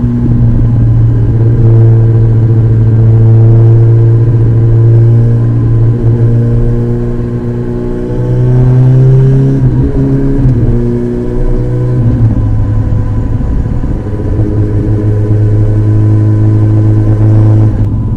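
Kawasaki ZX-14R's inline-four engine running through an Akrapovič exhaust at steady mid revs, with a few small shifts in pitch.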